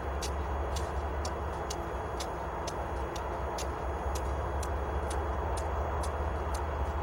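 Diesel locomotive idling with a steady low rumble and a broad even noise, under a light, regular ticking about twice a second.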